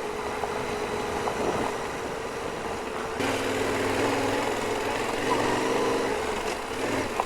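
Yamaha Ténéré 700 motorcycle's parallel-twin engine running at low speed, with wind and gravel road noise; the engine note shifts about three seconds in.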